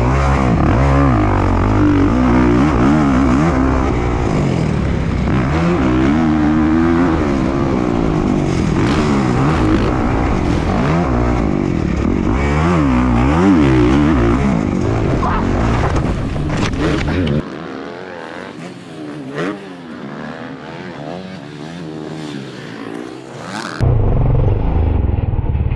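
Dirt bike engine revving hard during a motocross race, its pitch climbing and falling again and again as the rider works the throttle and gears. About two-thirds of the way in, the engine sound drops quieter and thinner for several seconds, then comes back loud.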